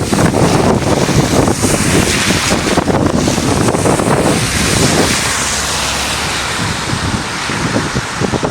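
Gale-force wind gusting across the microphone as a loud, rushing roar that eases a little about halfway through.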